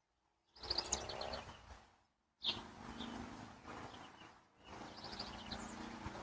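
Outdoor ambience with birds chirping in short series of quick high notes, several times, over a low steady hum. It starts after a moment of silence and drops out briefly twice.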